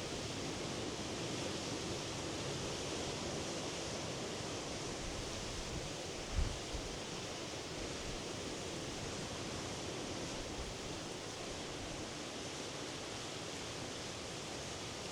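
Steady wash of sea waves breaking on the shore, an even rushing noise without a clear rhythm. About six seconds in there is one brief low thump.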